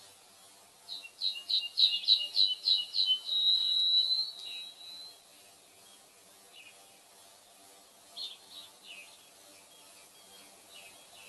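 Songbird singing: a run of about eight quick repeated notes that runs into a long, even trill, followed a few seconds later by scattered short chirps.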